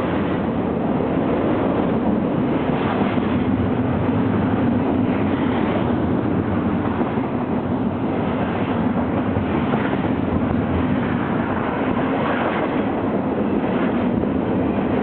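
Double-stack container freight train rolling past: a steady rumble of steel wheels on the rails, with faint clicks now and then.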